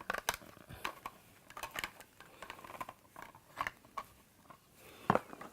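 Parts of a window bird feeder being handled and fitted together: an irregular run of small clicks and taps, with one louder knock about five seconds in.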